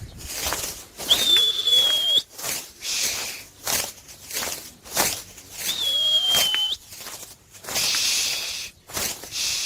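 A pigeon keeper whistling to call young homing pigeons down to the loft: two long, level whistles, each about a second, with short bursts of hissing noise between them.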